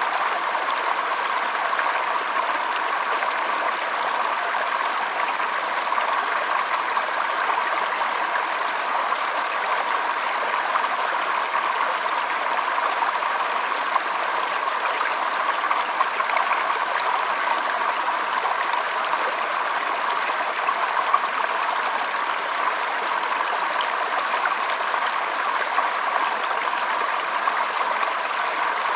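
Shallow stream trickling and flowing over stones: a steady, even rush of water.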